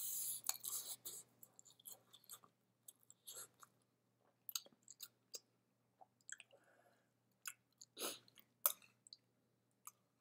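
Close-miked chewing and mouth sounds of eating steamed rice, in short irregular smacks and clicks, busiest in the first second and again about eight seconds in.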